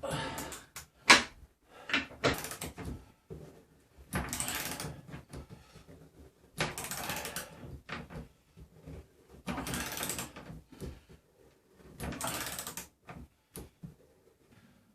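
Hand tool working on a bolted wooden roof support: a series of rattling mechanical strokes, each about a second long and coming every two to three seconds, with sharp clicks and knocks between them. The loudest is a single sharp click about a second in.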